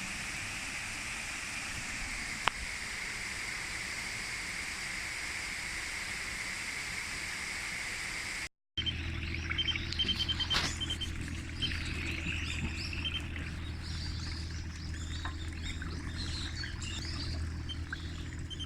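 Outdoor ambience: a steady hiss with a single sharp click, then after a cut, small birds chirping irregularly over a low steady hum.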